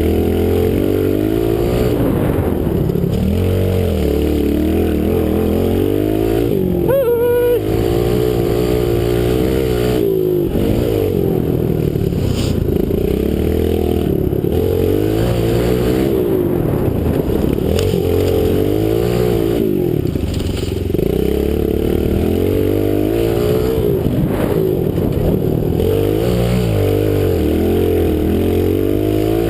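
Kawasaki KLX110 pit bike's small four-stroke single-cylinder engine being ridden hard: its pitch climbs through each gear and drops at the shifts and as the throttle is let off, over and over.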